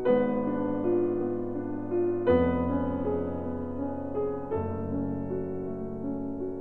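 Background piano music, slow, with a new chord struck about every two seconds.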